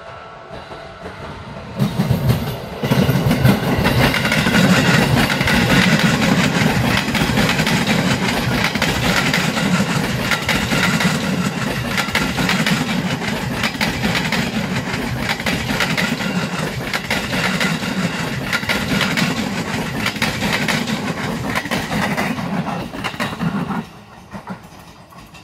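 A KRL electric commuter train passing close by, its wheel and rail noise steady and loud. It starts suddenly about two seconds in and cuts off sharply near the end.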